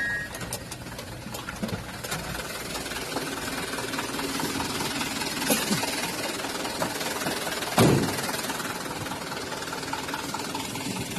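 Truck engine running steadily under road noise, with one loud thump about eight seconds in.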